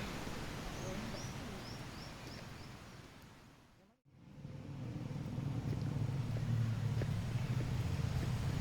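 Tropical forest ambience: a steady rushing background with a bird giving a quick run of about five short falling chirps around a second in. The sound fades out to silence about four seconds in, then fades back up with a heavier low rumble.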